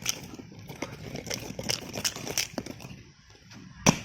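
Irregular sharp knocks and cracks of a frozen block of ice being struck and broken apart, about a dozen in all, with one louder strike near the end.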